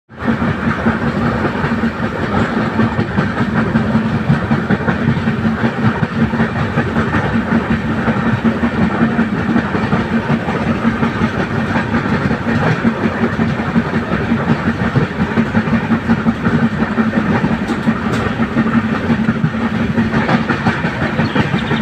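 Indian Railways passenger express running at speed, heard from aboard one of its coaches: steady rumble and rattle of wheels on the rails with a low hum.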